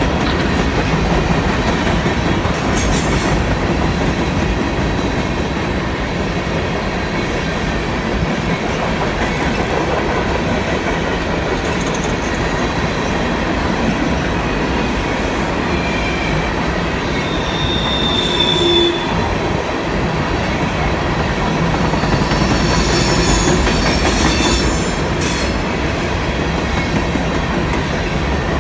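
Empty steel coal hopper cars of a long freight train rolling past: a steady rumble and rattle of wheels on the rails. A few brief, high wheel squeals come through in the last third as the cars take the curve.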